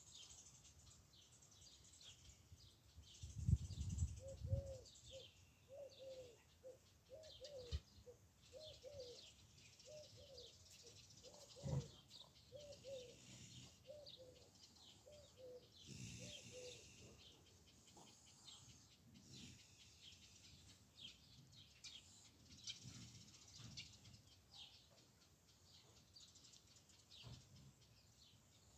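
Birds chirping and twittering in the background, with a run of short, evenly spaced low calls through the middle. A brief low rumble comes at about four seconds.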